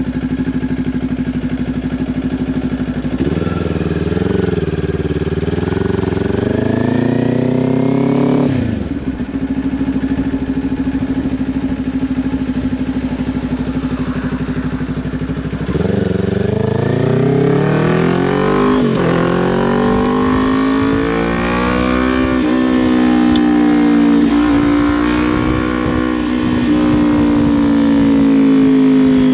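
Kawasaki Ninja 400's parallel-twin engine through a Leo Vince LV10 exhaust, on the move. It runs steady, then revs rising in pitch for several seconds before dropping sharply. After a steady stretch it climbs twice more, with a sharp drop between, and then holds fairly steady.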